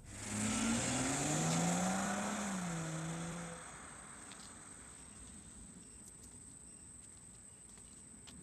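Car engine accelerating. It starts abruptly and loud, its pitch climbs for about two seconds and then levels off, and it fades away after about three and a half seconds.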